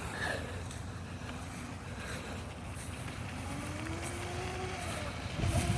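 Razor MX350 electric dirt bike's motor whining, its pitch rising slowly as the bike speeds up, over a low steady rumble.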